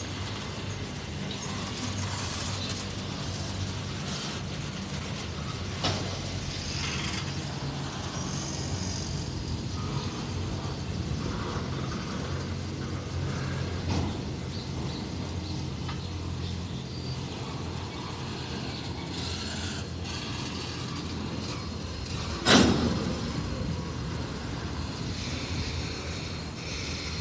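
Diesel freight locomotive engines running steadily at a train crossing, with a few metallic clanks from the train, the loudest about three quarters of the way through.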